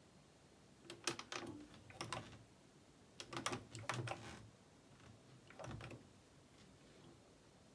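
Four short bursts of quick, light clicks with quiet between, the longest about three seconds in.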